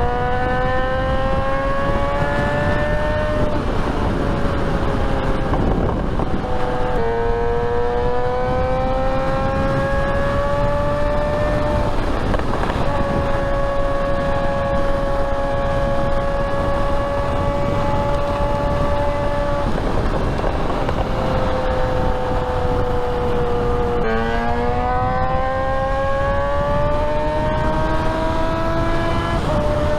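Motorcycle engine heard from the rider's seat, pulling up in pitch under throttle, easing off, holding a steady cruise for several seconds, then dropping back and pulling up again near the end. Heavy wind rushes over the helmet microphone.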